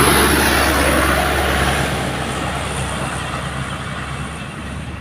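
Heavy diesel truck engine working hard on a steep uphill climb, loud at first and fading as the truck moves away.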